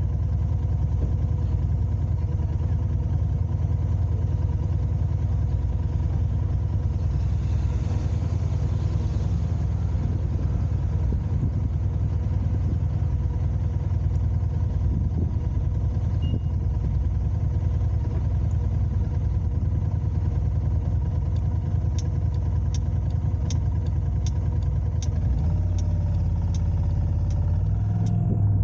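Car driving in city traffic: a steady low rumble of engine and road noise. In the last quarter a run of light, evenly spaced ticks starts, about two a second.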